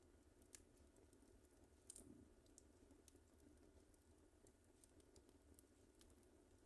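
Wood fire crackling faintly, with scattered sharp pops and ticks, the loudest about two seconds in.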